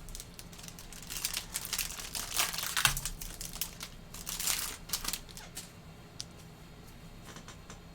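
Trading-card pack wrapper being crinkled and torn open, a dense crackle with sharp clicks from about one to five seconds in, then a few scattered ticks.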